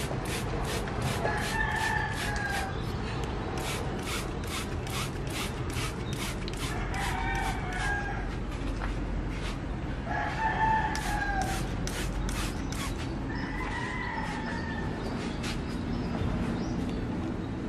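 Roosters crowing again and again, about six calls, each up to about a second and a half long. Under them runs a steady series of sharp taps or clicks, about three a second.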